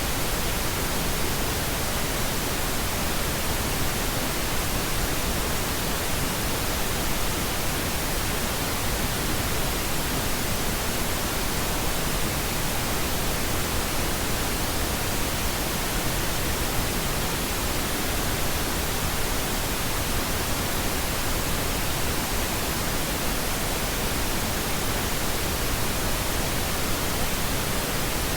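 Steady pink noise: an even, unchanging hiss across the whole range, held at a constant level.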